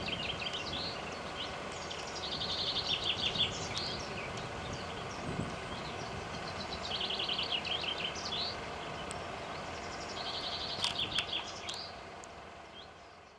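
A songbird singing a short, rapid trilled phrase, repeated about every three to four seconds over a steady faint outdoor background noise. The sound fades out near the end.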